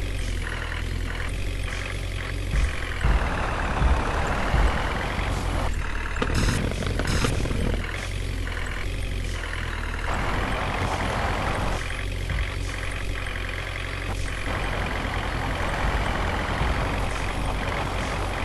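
Tractor engine running with a steady low rumble, growing louder and rougher for a few seconds at a time, with a few sharp knocks about three to five seconds in.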